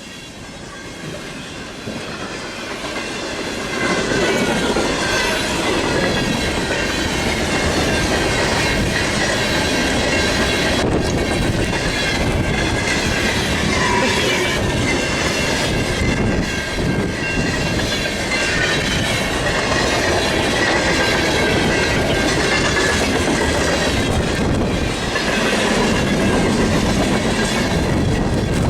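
Long mixed freight train passing close at track speed: it grows louder over the first four seconds, then holds a steady rumble and rattle of freight cars with wheels clicking over the rail joints.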